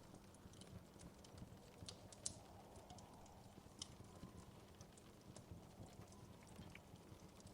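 Wood fire crackling quietly in a fireplace: irregular sharp pops and ticks, the loudest about two seconds in and again near four seconds, over a steady low rumble of the burning fire.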